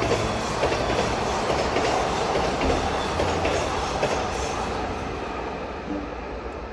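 A train rolling past: a steady rush of wheels on rail with scattered sharp clicks, easing off over the last couple of seconds.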